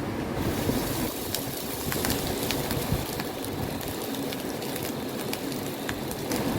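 Heavy rain falling, a steady hiss with many sharp separate drop hits pattering on a surface.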